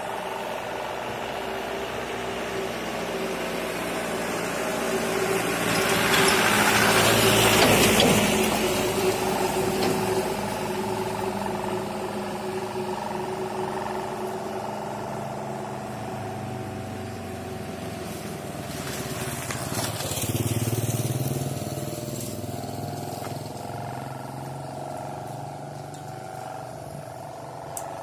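Sendaren kite hummer on a large barong kite droning steadily in strong wind: a buzzing hum on several pitches at once that sounds like a motorbike engine. A louder rushing swell rises and fades between about six and nine seconds in, with a smaller one near twenty seconds.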